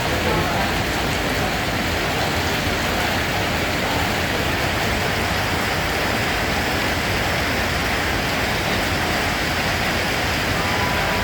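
Steady rain, an even hiss of falling water that holds the same level throughout.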